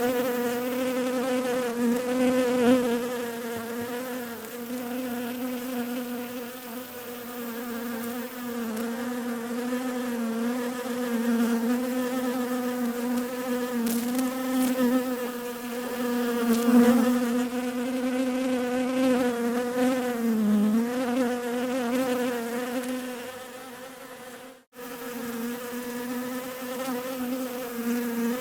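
Bees buzzing in a steady drone, the pitch wavering slightly, with a brief dropout near the end before the buzzing resumes.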